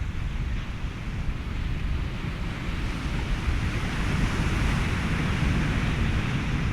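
Ocean waves washing with wind and a steady hiss of white noise, a wave swell building about halfway through and easing near the end.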